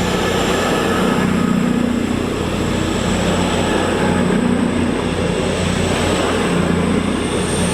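Class 221 and Class 220 Voyager diesel-electric multiple units pulling out of the station, their underfloor diesel engines running under power with a steady drone and a thin high whine that rises slightly near the end.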